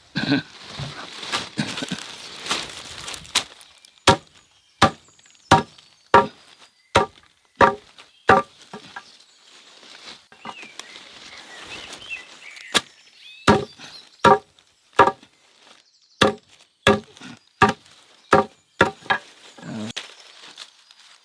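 Rhythmic chopping with a hand tool: sharp strikes about one every 0.7 seconds, a run of seven, a pause, then another run of about eight, with rustling between.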